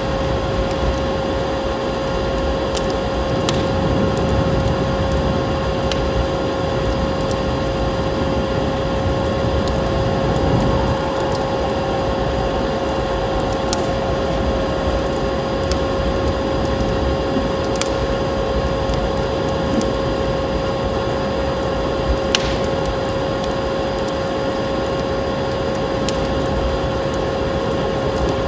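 Vacuum cleaner motor running steadily: an unbroken hum and whine with a constant pitch, over a wood fire with a few sharp crackles and pops.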